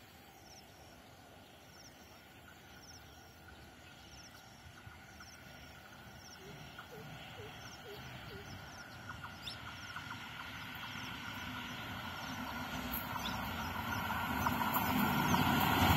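A WAG9 HC electric locomotive approaching along the track, its rumble and rail noise growing steadily louder. Over it a bird chirps high and repeatedly, about twice a second, with a few lower calls about halfway through.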